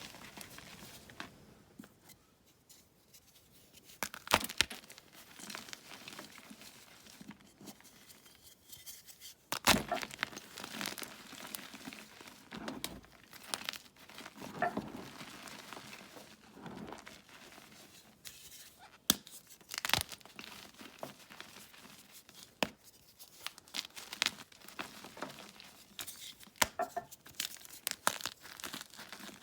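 Blocks of plain gym chalk being crushed and crumbled: irregular sharp crunches and snaps over a soft, powdery crumbling, with a few louder snaps scattered through.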